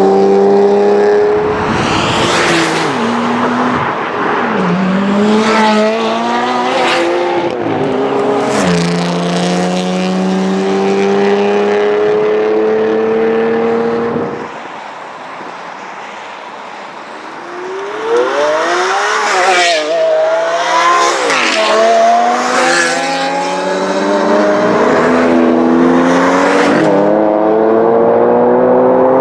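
High-performance car engines accelerating hard through the gears: the engine pitch climbs steadily and falls sharply at each upshift. Past the middle the sound drops suddenly to a quieter background for a few seconds, then another car revs with quick rising and falling sweeps and pulls away through more upshifts.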